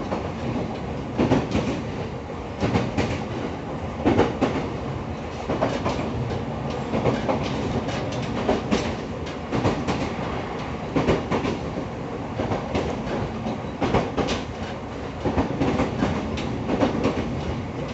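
EV-E301 series 'ACCUM' battery electric train running at speed, heard from inside the passenger car. There is a steady rumble, and the wheels clack over rail joints roughly every second and a half.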